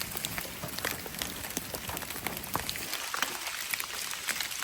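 Steady rain falling, an even hiss dotted with many sharp drop ticks.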